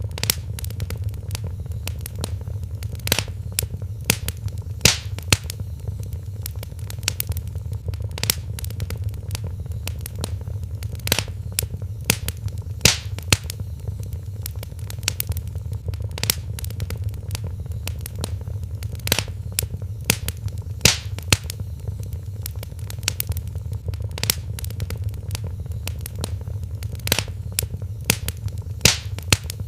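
Wood fire crackling in a fireplace: sharp, irregular pops and snaps, a few of them louder, over a steady low rumble of burning.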